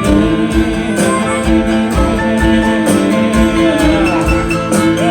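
Live country band playing an instrumental break, with guitar to the fore over a steady beat.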